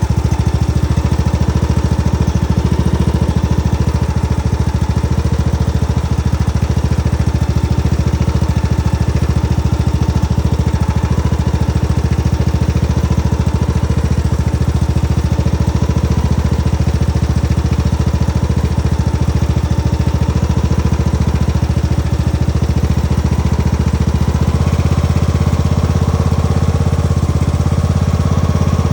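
Tractor engine running steadily at idle with an even beat. Near the end its note shifts and it gets slightly louder.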